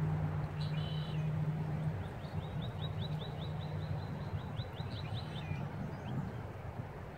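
A small songbird singing: a short call, then a rapid trill of repeated falling high notes lasting about three and a half seconds. Under it runs a steady low hum.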